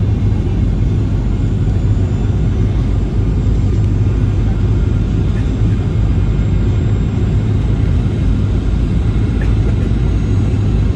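Steady low rumble of a Boeing 737-800's CFM56 jet engines, even in level throughout.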